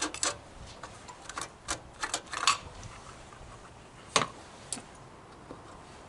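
Irregular light clicks and taps of hand work on small-engine parts, with a quick run of them in the first two and a half seconds and two sharper knocks a little after four seconds in.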